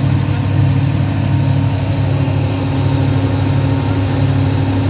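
Electrical panel humming: a loud, steady, low electrical hum that holds unchanged.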